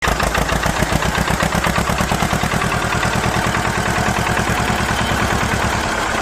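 Small engine of a mini tractor running steadily, with a rapid, even chug.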